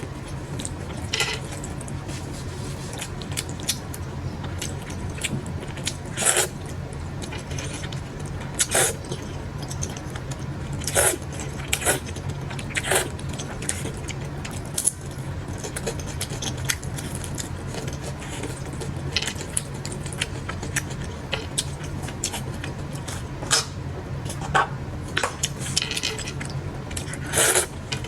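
Eating sounds at close range: chopsticks and utensils clinking and scraping against dishes, with chewing, heard as many irregular short clicks over a steady low hum.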